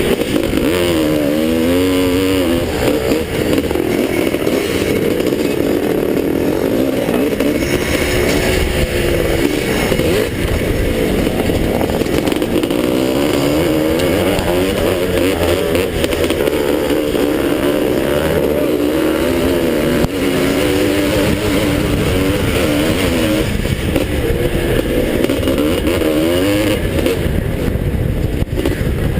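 Vintage motocross dirt bike engine being ridden hard around the track, its pitch rising and falling again and again as the throttle is opened and shut.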